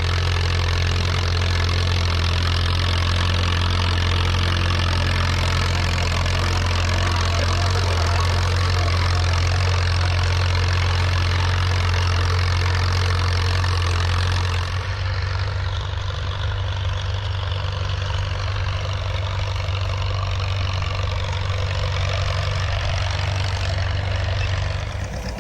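Tractor engine running steadily with a strong low hum; about fifteen seconds in the sound changes abruptly, duller and rougher.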